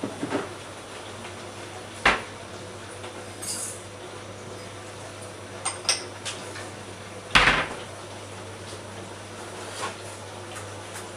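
Drops from a dripping tap landing irregularly in the basin below, each a short sharp plink; the loudest come about two and seven seconds in. A steady low hum runs underneath.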